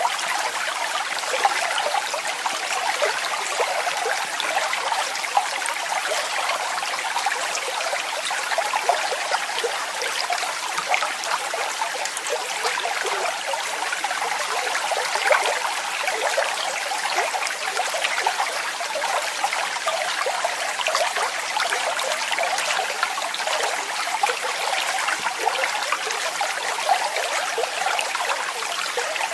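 Waterfall: water falling and splashing steadily, a continuous rushing hiss with small splashes and little deep rumble.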